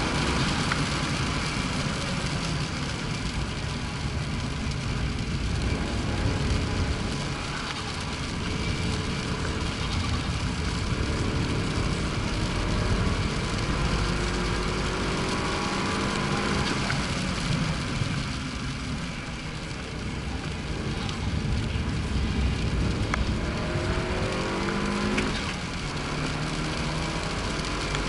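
Engine of a tuned Abarth on a circuit, climbing and dropping in pitch again and again as it accelerates and shifts, over steady road and wind noise.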